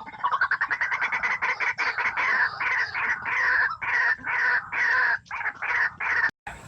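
White-breasted waterhen (ruak-ruak) calling: a loud, fast series of harsh, repeated croaking notes, several a second, that cuts off abruptly near the end.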